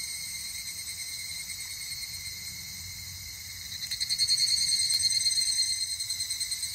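Summer night insect chorus: steady, fine trilling in several high pitches at once, growing louder about four seconds in.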